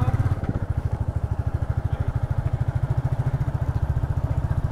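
Motorcycle engine running with a steady, even pulse while being ridden slowly.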